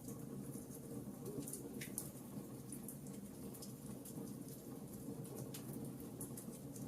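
Wood fire crackling, with scattered sharp pops at irregular intervals, over a soft steady patter of rain.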